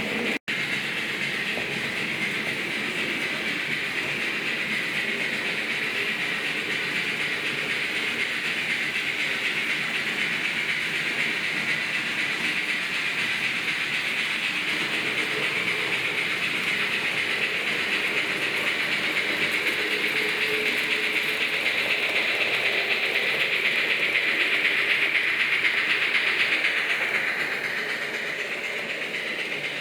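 Märklin H0 model trains running on the layout, a steady rolling rattle of wheels on track and motor noise. It swells as a train draws near, about three-quarters of the way through, then eases off near the end.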